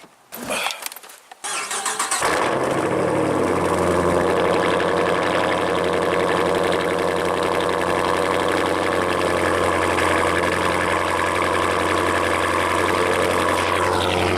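Car engine starting about two seconds in, then idling steadily.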